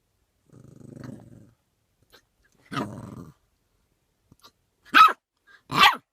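A dog growling low with a rapid rattle, then a short growl, then two sharp barks near the end.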